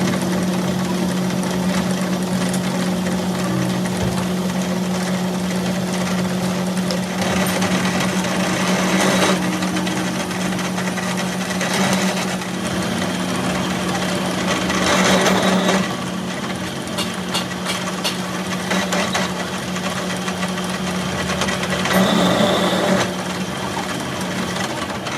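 A workshop machine's electric motor running with a steady hum under constant mechanical noise, with louder noisy stretches about a third of the way in, around the middle and near the end.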